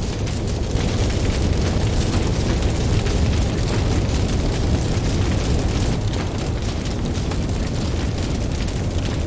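Ocean waves washing in with a deep, continuous surge that swells a little in the first half, over the steady crackle and small pops of a campfire.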